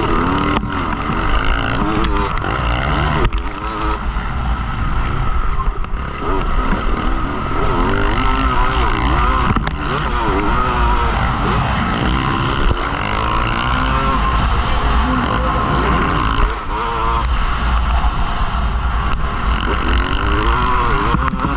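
Several motocross bikes' engines revving up and down, their pitch rising and falling again and again as they race around the track.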